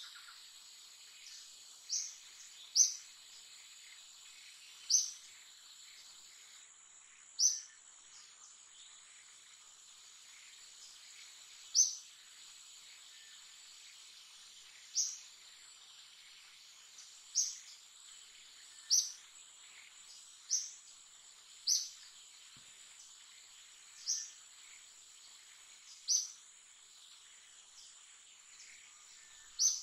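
A bird's short, high chirps, repeated every one to three seconds, over a steady high-pitched hum of insects.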